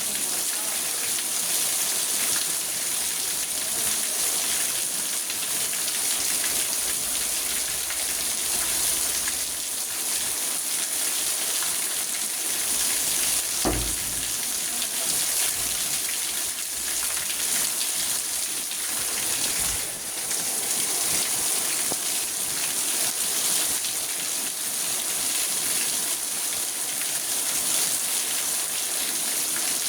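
Rain falling on a car's roof and windows, heard from inside the car: a steady, even hiss of drops, with one brief low knock about halfway through.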